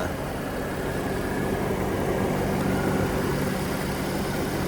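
Jeep engine idling steadily with an even low hum, run for a long stretch to bleed trapped air out of its cooling system after overheating.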